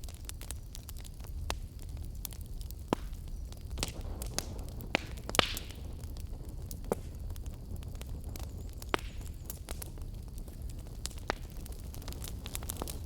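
Wood fire crackling: irregular sharp pops and snaps over a steady low rumble of burning. The loudest pop comes about five seconds in, with a brief hiss after it.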